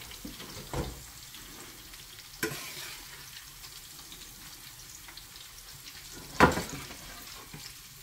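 Sliced squash frying in hot grease in a skillet, a steady sizzle, as a slotted spatula lifts pieces out. The spatula knocks against the pan three times; the loudest knock comes about six and a half seconds in.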